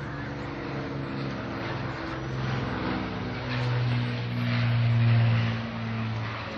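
Propeller aircraft engine droning as the plane flies past, growing louder to a peak about five seconds in and then easing off.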